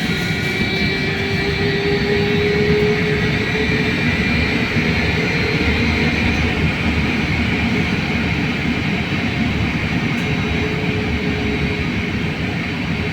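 Trolleybus interior during a ride: steady rumble of the moving vehicle, with the electric traction drive's whine rising slightly in pitch over the first few seconds and again near the end.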